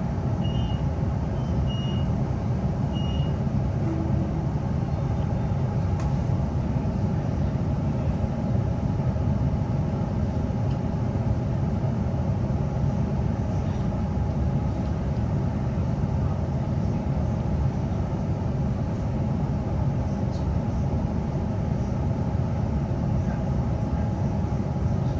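Steady low rumble of a Queensland Rail NGR electric train running, heard from inside the carriage. Short repeated high warning beeps sound over the first three seconds or so.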